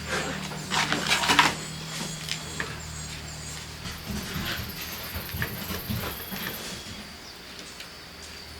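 A knife sawing through the crust of a homemade loaf of bread, with a few loud crunchy strokes about a second in, followed by softer knocks and handling sounds.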